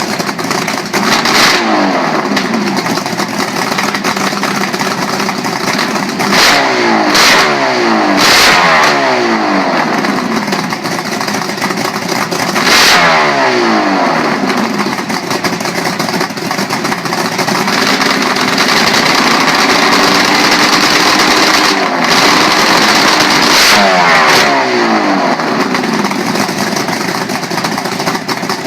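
Two-stroke V8 motorcycle engine running and being blipped repeatedly, the revs jumping and then falling away each time, with a short spell of held revs. Several short sharp cracks come with the blips.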